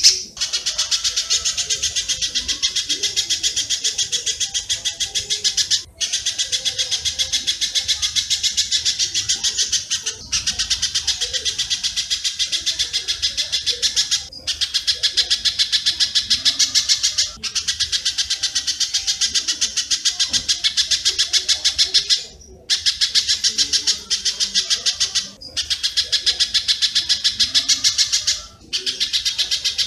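Recorded bird-call track of spiderhunter and swiftlet calls: a rapid, dense train of high chirps, about ten a second, running in bursts of a few seconds with brief breaks between them.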